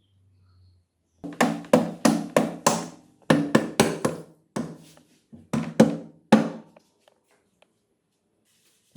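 A hammer or mallet striking a part about fifteen times in quick runs, each blow ringing briefly, stopping a couple of seconds before the end.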